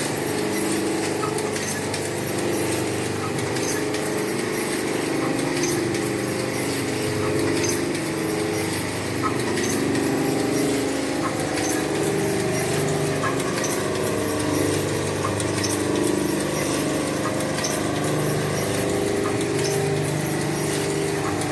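Electric metal shredder machine running with a steady mechanical drone and a constant scatter of small clattering impacts.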